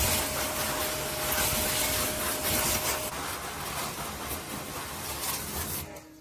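Steady rough rubbing, scraping noise with a thin steady hum through its first half; it drops away just before the end.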